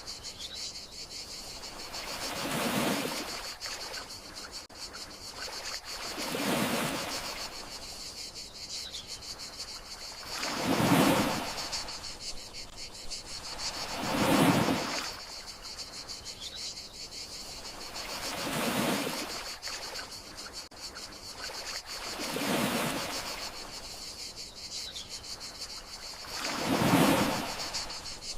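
Crickets trilling steadily under gentle sea waves washing ashore, each wave swelling and fading about every four seconds, seven times in all.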